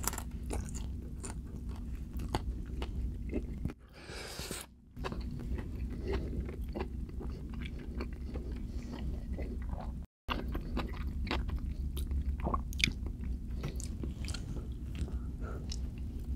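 A person chewing cheesy enchiladas close to the microphone: a run of small wet mouth clicks over a steady low hum. The sound cuts out briefly twice, about four and ten seconds in.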